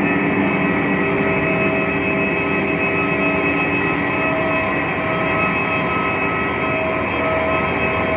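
Steady aircraft cabin noise: a constant hum of the engines and cabin air, with several steady tones held over it.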